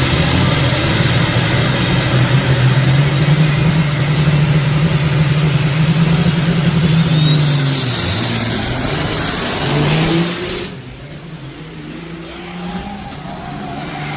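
Semi truck's engine running loud under heavy revving, with a high whistle climbing in pitch partway through. The sound drops off suddenly about ten seconds in, leaving a quieter engine running.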